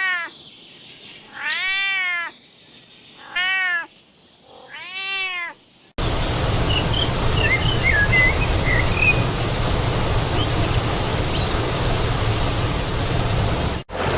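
A domestic cat meowing four times, each meow rising then falling in pitch. After a sudden cut about six seconds in, a steady noisy outdoor ambience takes over, with a few short high chirps.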